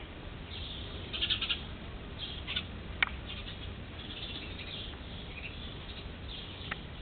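Faint short bird chirps in a few scattered clusters, with one sharp click about three seconds in.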